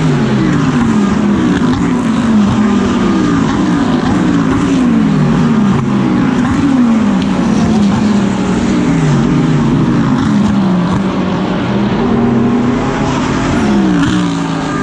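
GT3 race car engine heard from on board at racing speed, its note climbing and dropping over and over as the driver works through the gears and corners.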